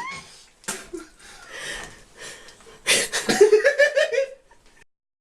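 People laughing, with a voice-like pitched sound near the end and a couple of sudden noisy bursts.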